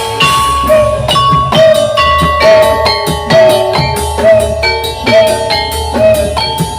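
Loud gamelan-style music for a barongan/jathilan troupe, played through a sound system: ringing metallic struck tones over a steady drum beat, with a drum stroke that bends up in pitch about once a second.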